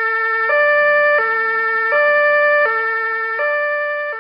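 Police car siren sounding a two-tone hi-lo wail, switching evenly between a lower and a higher note about every three-quarters of a second.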